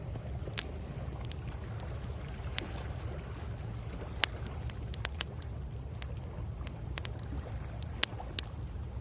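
Bonfire crackling, with scattered sharp pops of burning wood, over a steady low rumble of waves on the shore.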